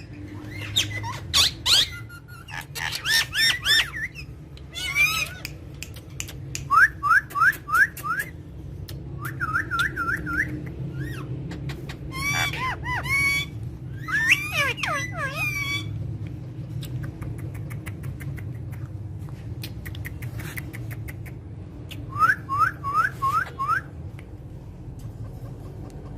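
Parrot whistling in quick runs of four or five short rising whistles, with squawks in between, over a steady low hum.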